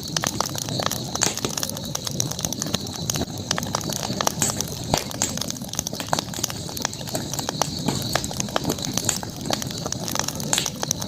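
Campfire burning, crackling with many irregular sharp pops and snaps over a low steady rush of flame. A steady high-pitched drone runs behind it.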